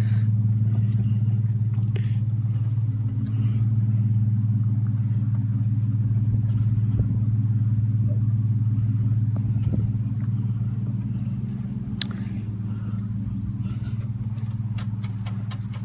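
Car running, heard from inside the cabin: a steady low hum that eases a little toward the end, with one sharp click about twelve seconds in.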